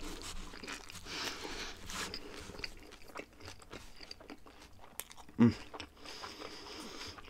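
Close-up chewing and biting of vegetarian lahmacun, a thin Turkish flatbread, with many small crunches and wet mouth clicks. A brief low vocal sound from the eater comes about five seconds in.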